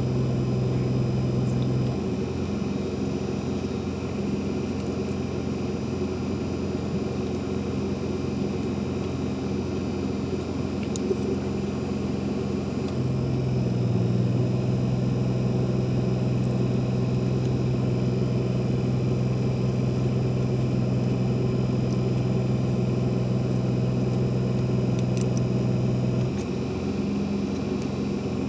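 A steady low engine or motor hum that shifts in pitch about two seconds in, again about halfway through, and near the end.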